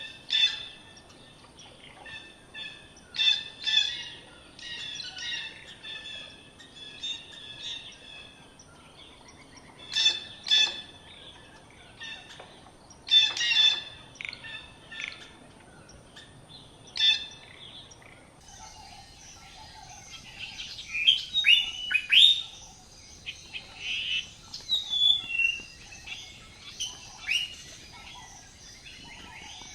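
Birds chirping and calling in short bursts of repeated notes over a faint steady high tone. A little over halfway through the sound changes abruptly to quicker, downward-sweeping chirps.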